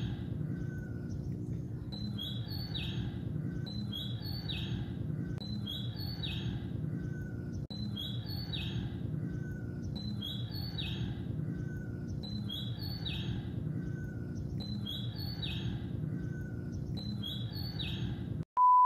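A bird's short high call of a few quick notes stepping down in pitch, repeating at a steady pace about once a second over steady low background noise. Near the end the sound cuts off and a steady beep tone begins.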